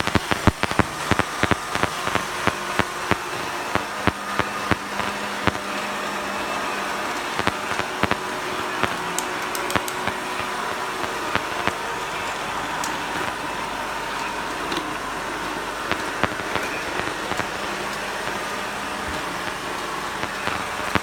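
Robot vacuum cleaners running, with a steady motor and brush hum; a quick run of clicks and knocks over the first few seconds thins out into the steady hum.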